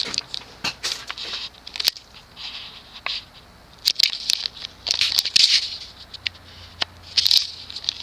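Cast-iron CEC-motored ceiling fan just switched on to low speed, a faint low motor hum coming in about five seconds in. Over it are irregular clicks and short rustling noises, which are the loudest sounds.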